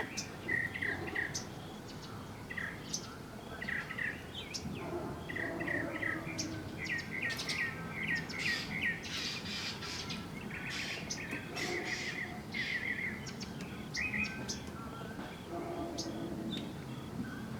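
Small birds chirping in quick series of short notes, with scattered sharp clicks among them.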